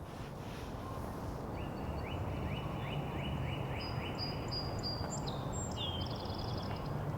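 A northern cardinal sings a run of repeated down-slurred whistles, about three a second. From about four seconds in, a song sparrow adds higher, sharper notes and a rapid trill. A steady low rumble of background noise runs beneath both.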